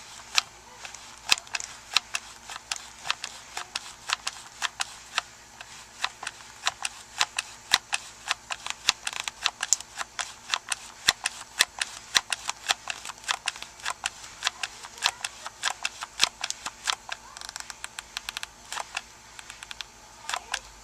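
Large hot glue gun's trigger squeezed over and over as it feeds the glue stick, making sharp clicks about two to three times a second, uneven in loudness.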